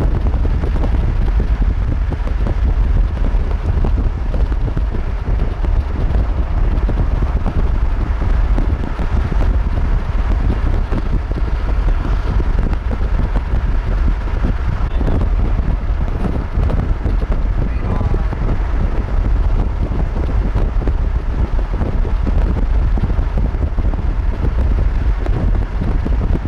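Strong wind buffeting the microphone: a steady, loud low rumble that runs on without a break.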